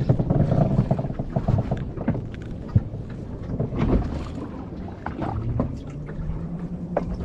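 Noise on board a fishing boat, with scattered knocks and clicks and a faint low hum.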